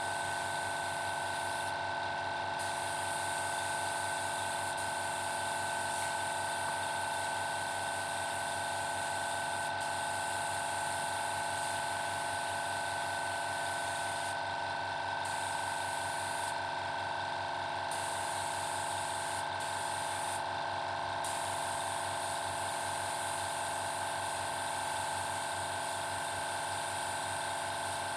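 Paint spray gun hissing steadily over the hum of the air compressor driving it, while a bird cage is sprayed. The high part of the hiss drops out briefly several times.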